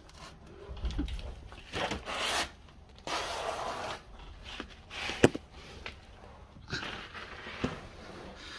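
Scraping, rubbing and rustling as a person gets down and moves under a car with a handheld camera, with handling noise on the microphone. There are dull thumps about a second in and a sharp knock about five seconds in.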